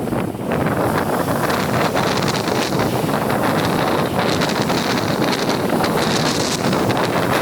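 Loud, strong wind blowing hard across the microphone, with waves on Lake Ontario churning beneath it.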